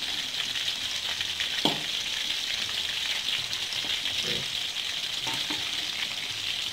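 Battered shrimp frying in hot oil in a wok: a steady sizzle, with a metal spatula knocking the pan once, sharply, about a second and a half in, and touching it faintly a few more times.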